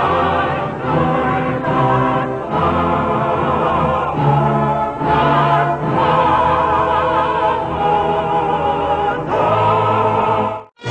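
Background choral music: a choir singing slow, held notes with vibrato. The music cuts off abruptly just before the end.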